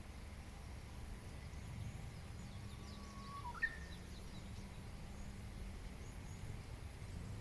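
Wild birds calling faintly over a steady low outdoor rumble, with one short whistled call sliding up in pitch about three and a half seconds in.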